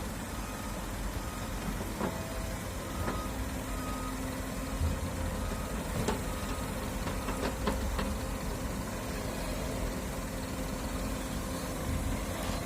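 Heavy diesel machinery running steadily, with a short repeating beeping alarm for the first few seconds and again around six seconds, and a few sharp knocks in between.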